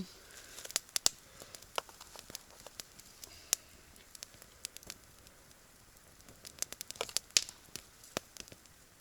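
Campfire crackling quietly, with irregular sharp pops and clicks, a few louder ones now and then.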